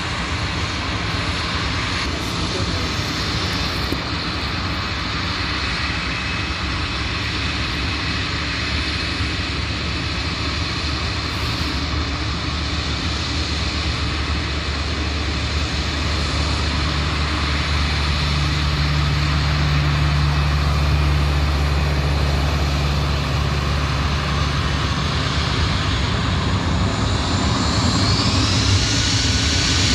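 Airliner's turbine engines running steadily and slowly growing louder, with a low hum through the middle and a rising whine near the end.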